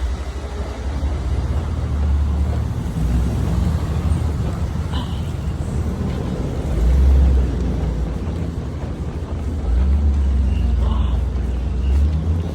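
Car driving on the road: a steady low rumble of engine and tyre noise that swells louder a couple of times.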